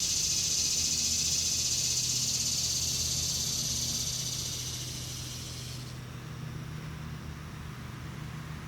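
Cicada calling: a steady high buzz that fades and stops about six seconds in, over a low steady hum.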